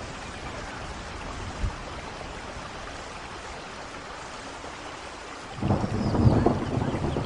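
Steady rain falling, then a loud rumble of thunder that breaks in suddenly about five and a half seconds in and keeps rolling.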